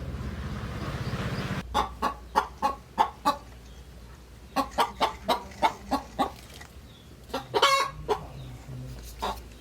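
A chicken clucking in a run of short calls, several a second, with one longer squawk near the end. Before them, a steady low hum stops suddenly about one and a half seconds in.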